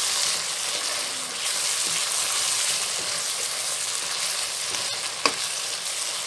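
Thick spiced onion-tomato masala sizzling in oil in a non-stick wok as a silicone spatula stirs and scrapes it round, the masala being fried down after its ground spices went in. One sharp knock about five seconds in.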